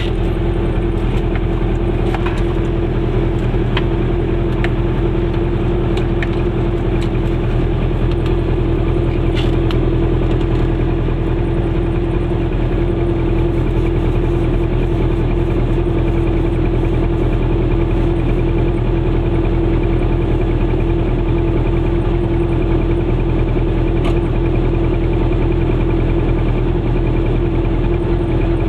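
Goggomobil's two-stroke twin engine running at a steady idle, heard from inside the microcar's small cabin.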